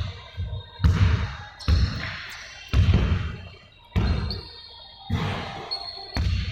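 Ball bouncing on a hard floor in a large echoing hall, six heavy thuds about a second apart.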